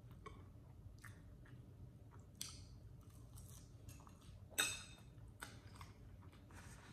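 Close-miked chewing of chili cheese fries: soft wet mouth clicks and smacks at irregular intervals, the loudest a little past halfway.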